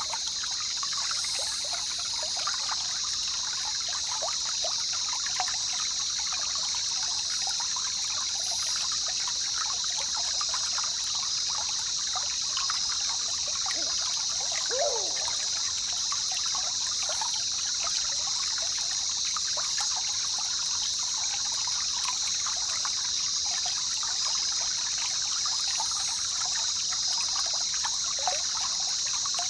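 Jungle river ambience: water trickling and babbling steadily, with a constant high-pitched drone above it and a brief falling call about halfway through.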